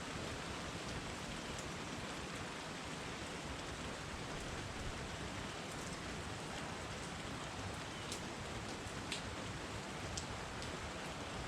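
Steady rain falling, an even hiss with scattered sharp drips of individual drops.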